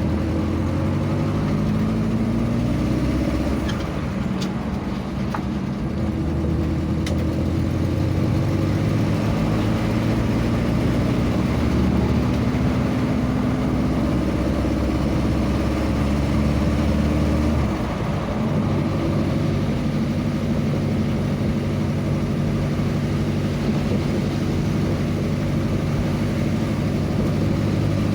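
Vehicle engine running on the move, a steady hum whose pitch shifts in steps as the speed changes, with a change about 18 seconds in.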